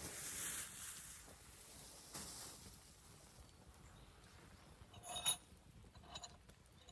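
Campfire burning: a soft hiss that fades over the first second, then a sharp, ringing pop from the burning wood about five seconds in and a smaller one a second later.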